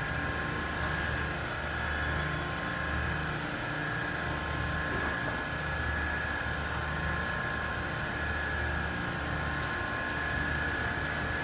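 Electric turret-truck forklift running: a steady electric motor whine over a low hum that swells and fades every second or two.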